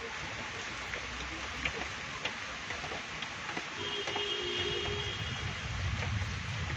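Steady rain falling on a city street, with close drops ticking now and then, and a low rumble of passing traffic that builds in the second half. About four seconds in, a brief steady two-note tone sounds for about a second and a half.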